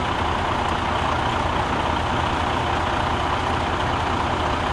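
Truck engine running steadily, a low, even rumble.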